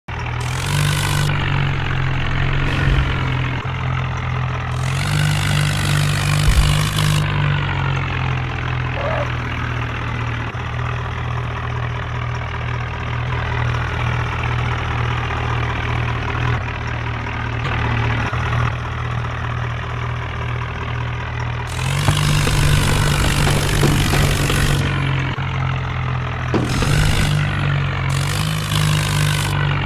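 Diesel tractor engine running at idle, revved up a few times for a second or two.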